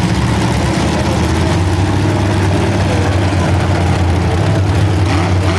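Demolition derby cars' engines running together in a steady low drone.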